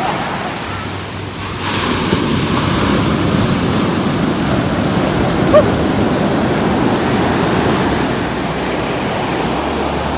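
Ocean surf washing on a beach, with wind buffeting the microphone; the wash swells up about two seconds in. A brief squeak sounds once about halfway through.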